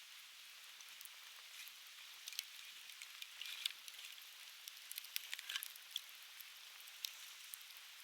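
Conifer firewood crackling and popping in an open fire, with irregular sharp pops that grow busier a couple of seconds in, over a steady soft hiss of a flowing stream.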